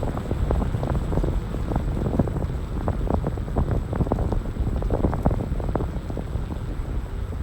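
Wind buffeting the microphone: a gusty low rumble with irregular flutters.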